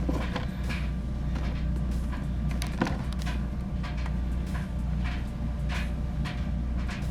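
GE gas dryer running with its drum turning: a steady low hum with faint irregular light clicks, and none of the reported abnormal noise, which had not yet started.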